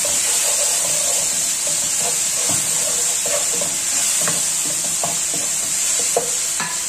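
Chopped tomatoes sizzling in hot oil and spices in a non-stick kadai, stirred with a wooden spoon. A steady frying hiss runs under scattered light scrapes and knocks of the spoon against the pan.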